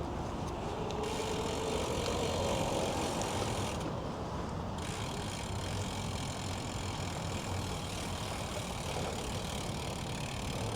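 Steady low rumble of an idling motor vehicle, with a faint tone that rises slowly in the first few seconds.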